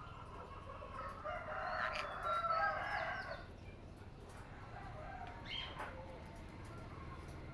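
A bird calling: one long, loud call about a second in, lasting about two seconds, then a short higher call past the middle.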